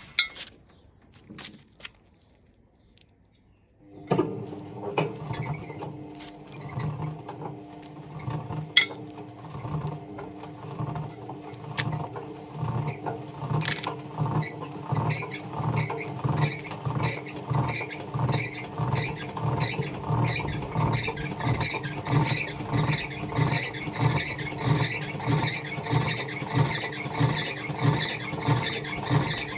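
A few metallic clinks, then about four seconds in a washing machine starts running with weights loose in its drum: a steady motor hum under a rhythmic squeaking and knocking beat that settles to about one and a half pulses a second as the drum turns with the unbalanced load.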